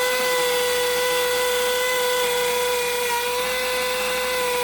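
Electric drill running steadily at full speed with an even whine, boring into a very hard wall that the bit barely goes into.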